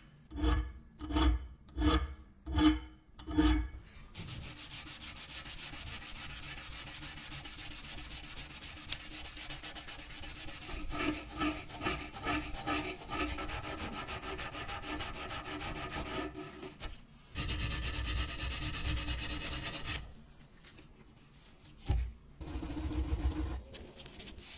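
Hand abrasive work, filing and rubbing. It opens with five rhythmic strokes, then turns to long steady rubbing with a run of quicker strokes partway through. A single sharp knock comes near the end.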